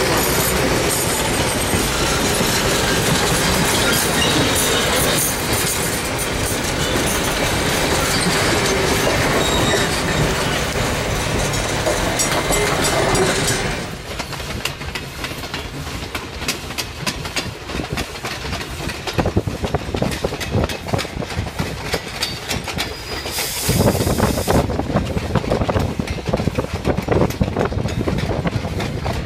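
Passenger coaches of a steam excursion train rolling past at close range, the wheels clicking over rail joints. About halfway through the sound drops off, and near the end it grows louder again as the 2-6-0 Mogul steam locomotive and its train approach.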